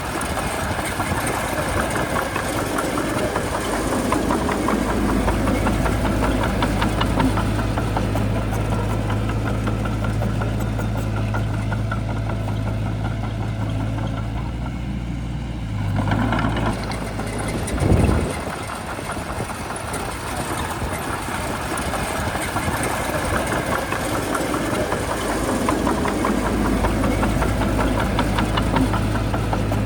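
Bulldozer's heavy diesel engine running steadily under work. About halfway through the engine note shifts, and a brief louder surge follows a couple of seconds later.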